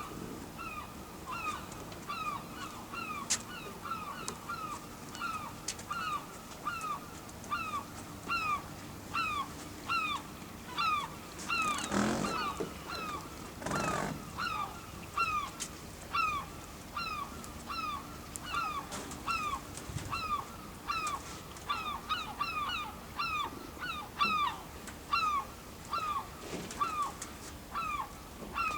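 A bird calling over and over: short, high chirps that slide downward, about one and a half a second, keeping up steadily. Twice, midway, a brief rush of noise passes under the calls.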